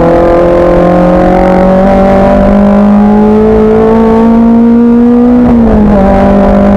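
Race car engine pulling hard under acceleration, its pitch climbing slowly as the revs rise. About five and a half seconds in it changes up a gear, with a short dip in pitch, then pulls on at the lower note.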